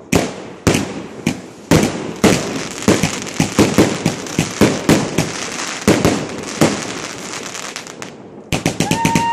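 Multi-shot firework box firing: a rapid, uneven string of sharp bangs and crackles that thins out about eight seconds in. Near the end a fresh quick volley starts, with a steady high whistle over it.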